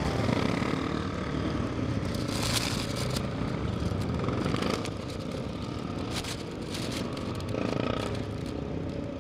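Motorcycle engines running steadily, with a few brief louder hissy surges.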